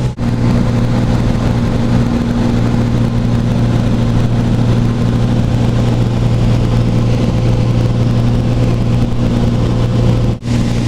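Small light aircraft's engine and propeller droning steadily, heard inside the cabin, with a deep even hum and a few steady tones above it. The drone cuts out for an instant twice, just after the start and near the end.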